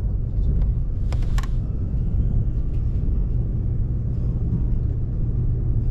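Steady low rumble inside a moving KTX-EUM high-speed train carriage, with a couple of brief clicks about a second in.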